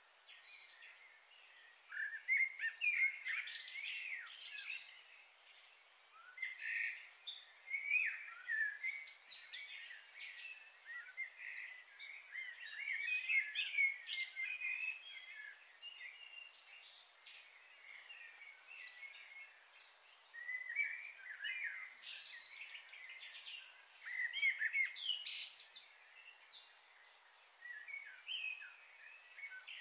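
Wild birds chirping and singing in the trees, short quick notes coming in bursts every few seconds.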